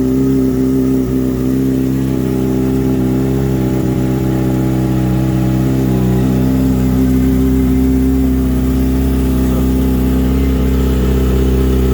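Kawasaki ZX-6R inline-four running through a Racefit aftermarket exhaust, idling steadily after a cold start.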